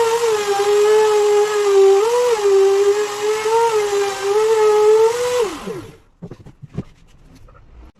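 High-speed electric power tool running with a steady whine that wavers slightly. It is switched off and spins down, pitch falling, about five and a half seconds in.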